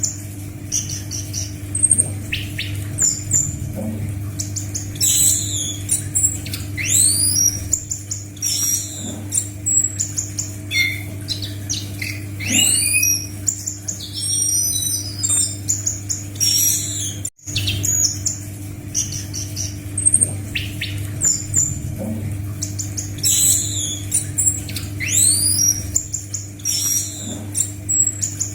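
Anis macan thrush singing a continuous, varied song of high whistles, steep falling sweeps and quick chattering trills, over a steady low electrical hum. The song cuts out for an instant a little past halfway.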